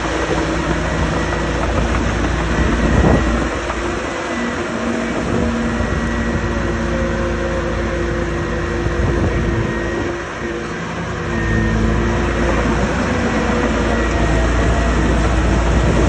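Komatsu D57S crawler loader's rebuilt diesel engine running steadily while being broken in. Its sound drops briefly about ten seconds in, then comes back up stronger.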